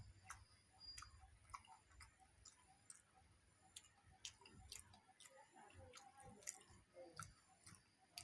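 Faint eating sounds: scattered small clicks and soft, wet chewing, with no steady background.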